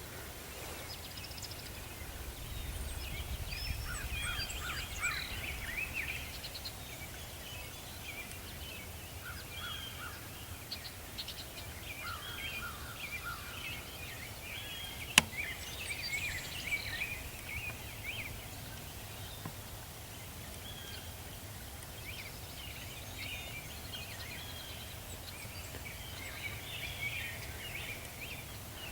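Small songbirds chirping and trilling on and off over a low steady rumble, with a single sharp click about halfway through.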